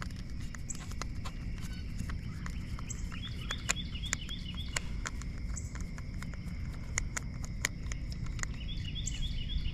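A steady low rumble of outdoor noise with scattered light clicks. A small bird chirps in quick runs of short high notes, once about three seconds in and again near the end.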